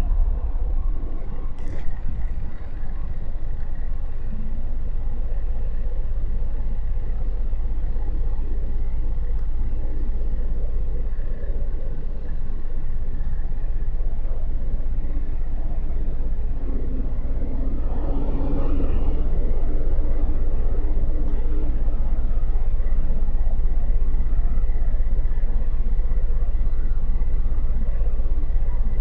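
Motorcycle riding in city traffic: a steady low rumble of engine, road and wind noise on the mic, growing a little louder about eighteen seconds in.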